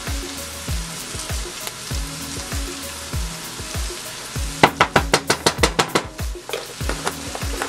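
Peppers and onions sizzling as they sauté in a stainless steel pan, under background music with a steady beat. About halfway through comes a quick run of sharp clicks as curry powder is shaken from a plastic container over the pan.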